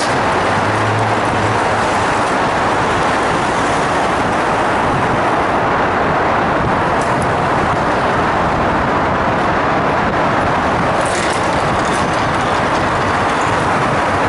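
Motorcycle riding at steady speed: a loud, even rush of wind and road noise over the microphone, with the engine underneath.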